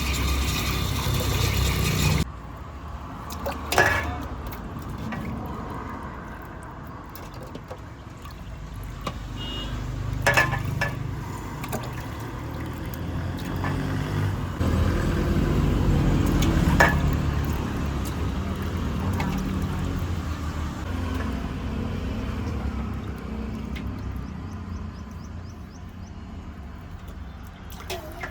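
Food sizzling and being stirred in a wok, cut off abruptly about two seconds in, followed by a low, steady rumble that swells and fades, with a few sharp metal clanks.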